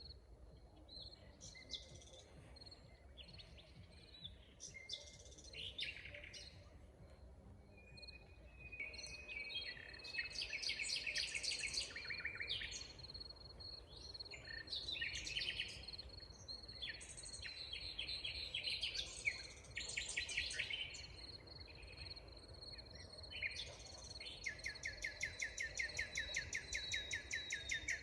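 Several songbirds singing and calling in a forest, overlapping chirps and trills, over a faint steady high whine like an insect. Near the end one bird sings a fast repeated trill.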